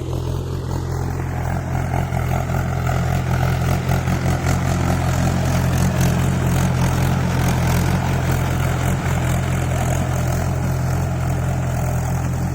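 Tractor engine running steadily under load while ploughing a flooded paddy field into mud (puddling).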